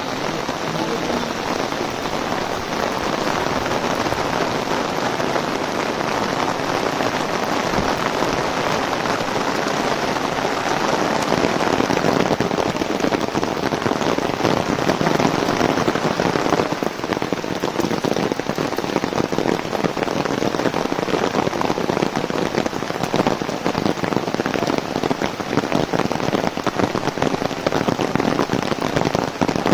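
Heavy rain drumming on an umbrella held overhead: a dense, steady patter of countless drops that gets a little louder about twelve seconds in.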